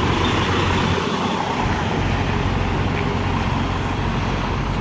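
Semi truck's diesel engine running steadily with an even low hum as the truck moves off at low speed.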